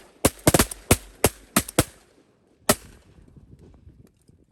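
A rapid volley of shotgun blasts from several hunters firing at once: about nine shots in the first two seconds, some nearly overlapping, then one last shot a second later. The ducks are being shot as they come in.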